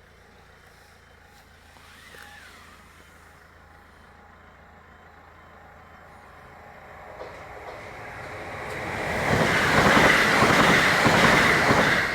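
A train approaching and passing over a railway level crossing: a rushing rumble that builds from about seven seconds in and is loudest over the last three seconds. Before it, the crossing's warning alarm sounds faintly as an evenly pulsing tone.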